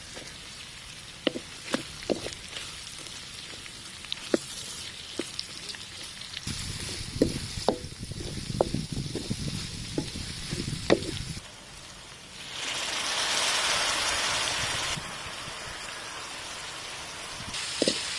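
Onions, chillies and ginger sizzling in oil in a large steel wok, with a wooden spatula knocking and scraping against the pan as it stirs. The sizzle is louder for a couple of seconds about two-thirds of the way through.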